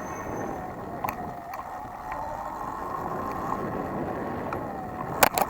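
Sur-Ron electric bike being ridden: a steady rush of wind and tyre noise with a faint electric motor whine that slides up and down in pitch. There are a couple of single knocks, and a quick run of sharp clatters near the end.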